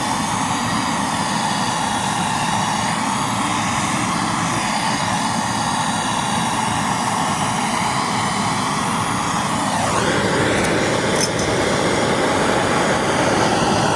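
Blowtorch flame burning steadily, heating a bearing's inner race before it is fitted onto a pinion shaft. About ten seconds in the sound becomes fuller and a little louder.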